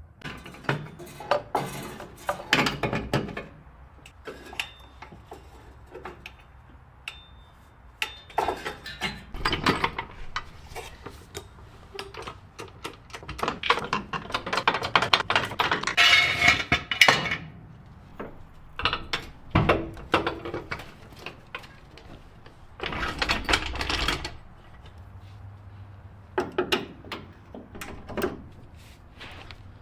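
Hand-tool work on metal parts: irregular clinks, knocks and stretches of scraping or rubbing, coming in bursts with short pauses between.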